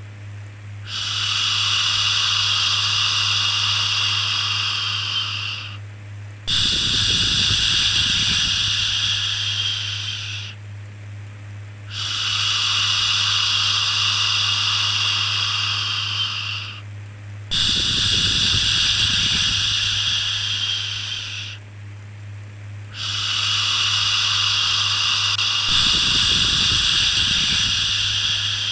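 Long 'shhh' shushing sounds for soothing a baby, five of them, each held about four to five seconds with a short pause between, over a steady low hum.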